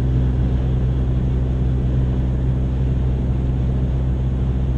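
Chevy Sonic's 1.4-litre turbocharged four-cylinder engine running steadily, a low, even drone heard from inside the car.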